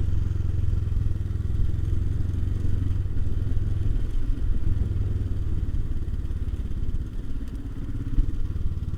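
Royal Enfield Himalayan's single-cylinder engine running steadily while riding along a mountain road, easing off briefly about seven seconds in.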